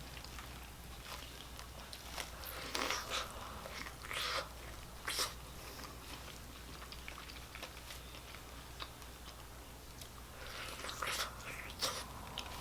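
A person biting and chewing food close to the microphone, with wet, crunchy mouth sounds coming in short clusters, over a low steady hum.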